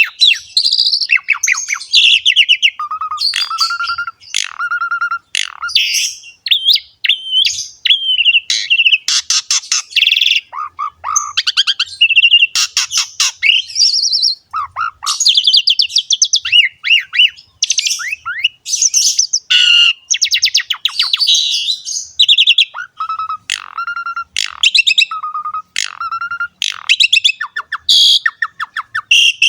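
A jalak suren (Javan pied starling) singing vigorously and without pause: a long, varied run of clear whistles mixed with harsh, rapid chattering notes and repeated lower whistled notes.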